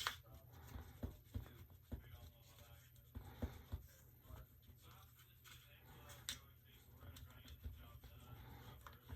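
Faint, scattered clicks and light taps of small items being handled, over a low steady hum.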